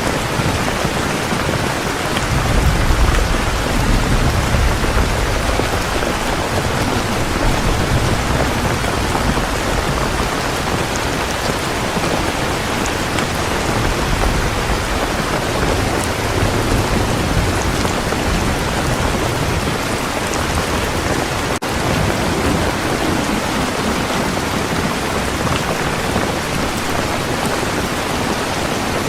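Heavy rain falling steadily, a dense hiss of drops on surfaces. A low rumble of thunder swells a few seconds in and fades.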